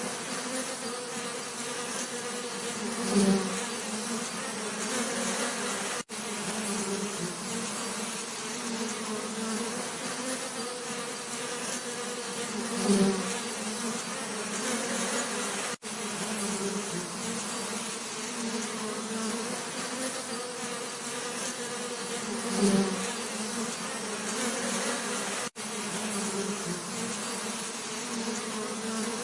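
Bees buzzing: a steady, many-voiced hum. One bee comes close and swells louder three times, about ten seconds apart. The sound cuts out for an instant three times.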